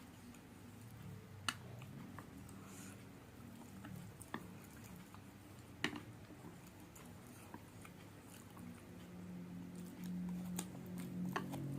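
Close-miked mouth sounds of someone chewing spicy fried noodles, soft and wet, broken by a few sharp clicks. A low steady tone comes in over the last few seconds.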